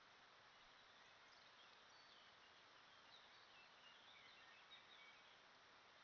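Near silence: a faint steady hiss with small birds chirping faintly here and there, short high calls throughout.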